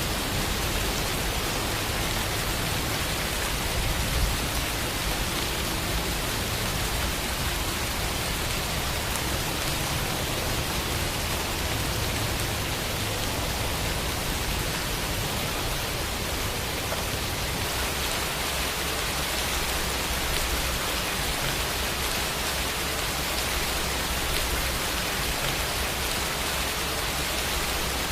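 Steady rain falling, an even hiss of many drops with no other sounds.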